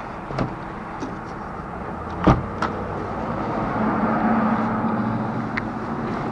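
Street traffic noise with a car engine hum swelling past about four seconds in, and a few sharp knocks, the loudest a little over two seconds in.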